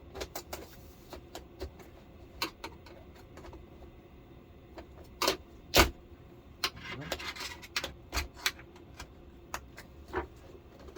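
Plastic clips of a flat-screen TV's casing clicking and snapping as the surround is prised apart, with two louder snaps close together about five and a half seconds in and a short stretch of plastic scraping just after.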